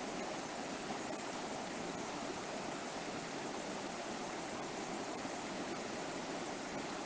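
River water flowing over rocks, a steady rushing babble.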